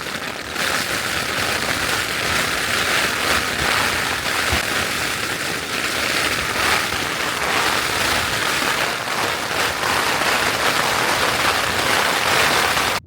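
Torrential rain falling steadily and heavily on the fabric of a Hilleberg Soulo tent, heard from inside the tent as a dense, even hiss.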